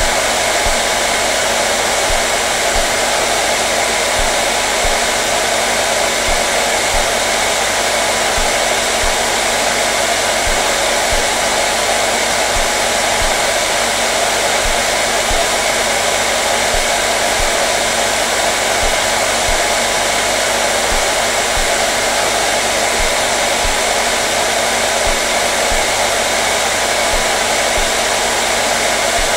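Hair dryer running steadily: an even, unchanging blowing noise with a faint motor hum beneath it.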